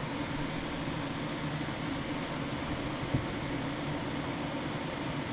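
Steady mechanical hum of room background noise, with one faint click about three seconds in.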